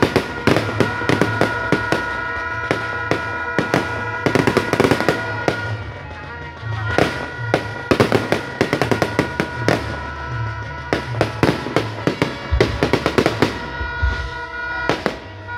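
Aerial fireworks going off in repeated volleys of quick bangs and crackling, with music playing underneath.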